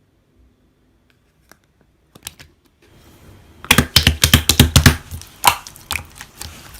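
Slime being worked by hand, giving a rapid run of crackling clicks and pops. It starts faintly about two seconds in and turns loud and dense just past the middle.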